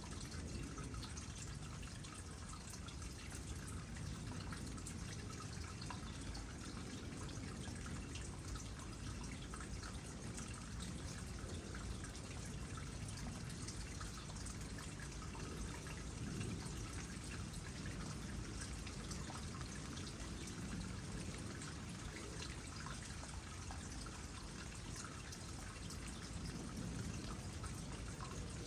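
Water trickling into a small pond, a steady splashing trickle with many small drips.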